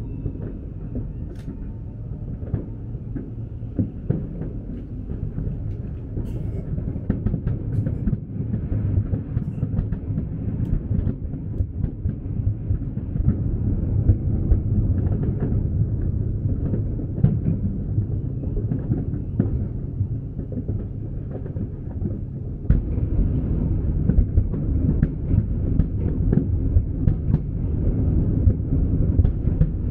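A fireworks display in a continuous barrage: dense low booms and crackles that merge into a steady rumble. It grows louder about 23 seconds in.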